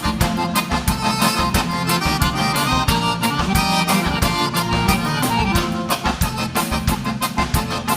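Live gaúcho dance music with no singing: an accordion plays the melody over bass and a steady, fast drum beat.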